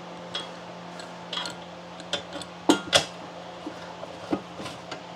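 Scattered metal clinks and knocks as metal pieces are handled and set in place on a workbench, with two sharper knocks close together about halfway through, over a steady low hum.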